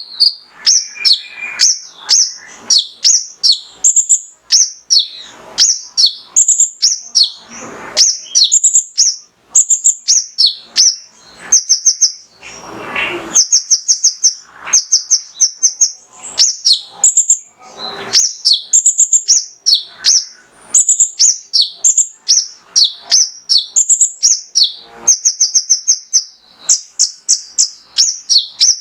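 Male olive-backed sunbird (kolibri ninja) singing a rapid string of sharp, very high chirps and short trills, phrase after phrase with brief pauses between.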